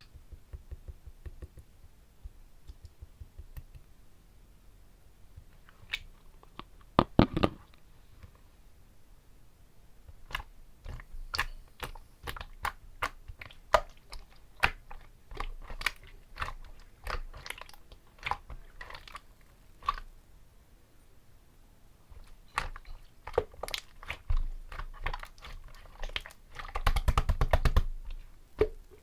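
Clear slime being squished and pressed by hand, making an irregular run of wet clicks and pops, with louder dense bursts about seven seconds in and near the end.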